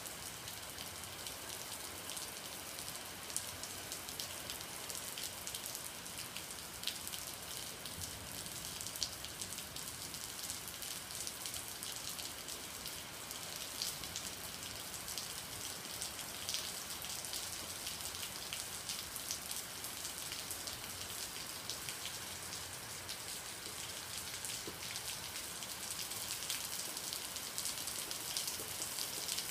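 Steady rain falling, with the tap of individual drops hitting close by.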